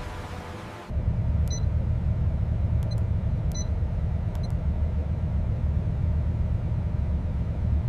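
A steady low rumble, with several short high electronic beeps over it in the first half.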